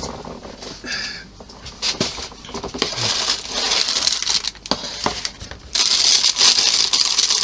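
Plastic packaging crinkling and rustling as it is handled and opened, with scattered clicks, getting louder about six seconds in.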